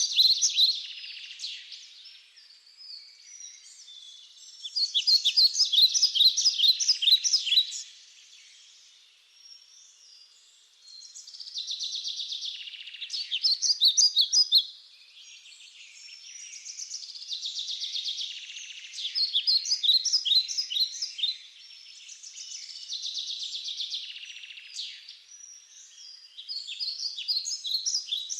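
Forest birds chirping and singing in phrases of rapid, high repeated notes that come every few seconds, over a steady high hiss.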